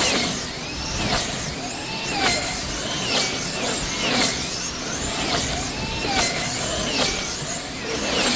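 Electric motors of wing-class slot cars whining as they lap the track. The pitch rises and falls, and a sharp pass comes about once a second.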